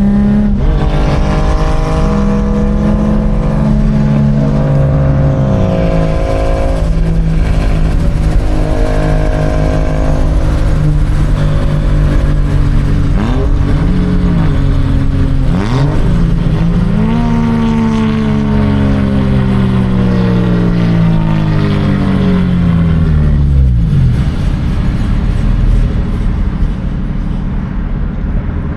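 Loud exhaust of a Nissan G35's V6 under way, the engine note rising and falling several times as the car accelerates and shifts gears, then holding steadier near the end.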